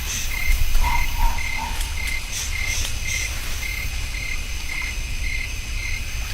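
Rhythmic chirping of small calling animals: one short high chirp repeating evenly about twice a second, with a few higher calls over it in the first half and a steady low rumble beneath.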